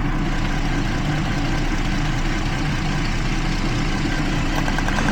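A 2012 Jeep Liberty's V6 idling rough with a misfire on cylinder 1. A fast, regular ticking joins in near the end.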